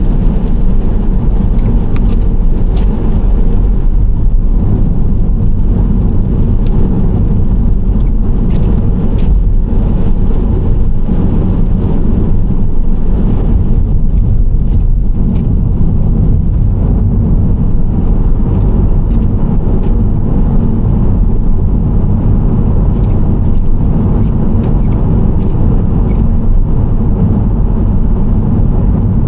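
Nissan Serena C25 minivan driving at a steady speed: a constant low engine and tyre rumble on the road, with scattered faint ticks over it.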